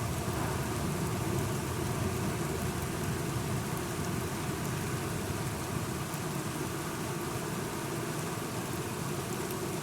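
Steady rain falling, with faint scattered drop ticks and a low rumble underneath that slowly fades.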